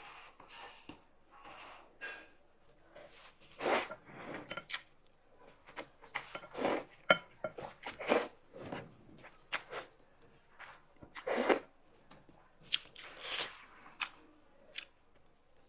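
Close-up eating of thukpa noodle soup: repeated short slurps of long noodles and broth, with wet chewing and mouth clicks between them.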